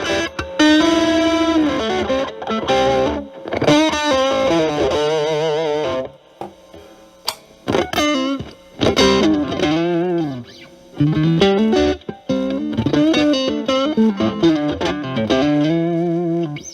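Fender Stratocaster with single-coil pickups playing a lead line through a Boss DS-1 distortion, boosted by an Ibanez TS9 Tube Screamer, into a Marshall Valvestate amp. It plays held notes with string bends and wide vibrato, goes sparse with a few short notes about six seconds in, then comes back to bent, sustained notes.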